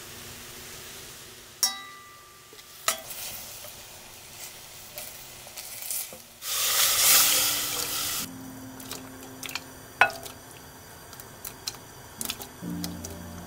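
Beef and minced garlic sizzling in a stainless steel pot, with a metal spoon clinking sharply against the pot a few times. About six seconds in, a louder rush of hissing lasts nearly two seconds. Soft music comes in near the end.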